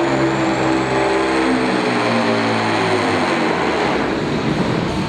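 Supersport pulling truck's diesel engine running hard under load, its pitch shifting up and down, turning rougher and noisier about three and a half seconds in.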